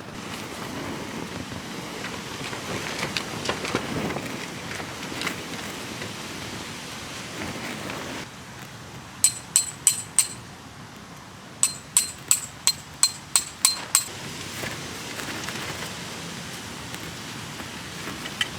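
A hammer striking a metal tent peg with ringing clanks: about four quick blows, then after a short pause about nine more, heard over a steady rushing noise.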